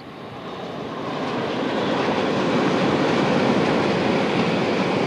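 Shinkansen bullet train passing at speed on an elevated viaduct: a steady rushing noise that swells over the first two seconds, then holds loud.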